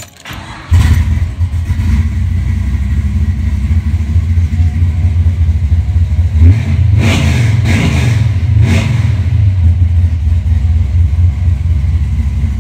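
A 1969 Chevelle's big-block V8 fires up about a second in and settles into a steady idle. It is revved briefly three times around the middle. The engine is running with low oil pressure, too low to take it much past 3,000 rpm.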